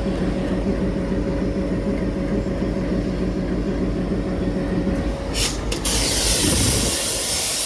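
ALCO WDM-3D diesel locomotive idling with a steady low drone. About five seconds in, two short puffs of air are followed by a loud, sustained hiss of air pressure being released from the locomotive.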